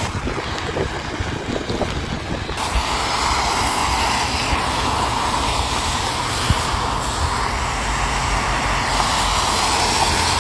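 Heavy rain pouring down in a steady hiss that swells and grows louder about two and a half seconds in.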